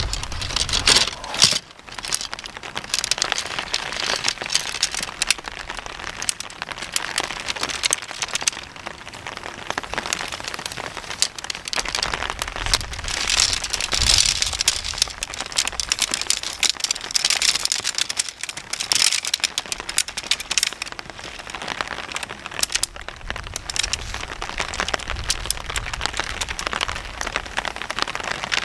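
Rain pattering steadily on paving stones and a rain poncho, with tent poles clinking and rattling as they are unpacked and laid out on the ground.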